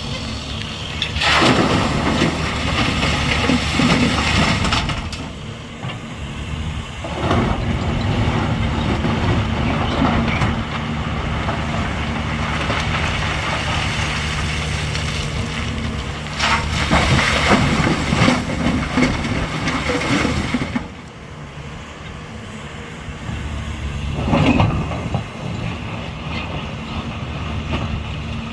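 Heavy excavator's diesel engine running steadily, with repeated loud stretches of clanking and scraping, each lasting a few seconds.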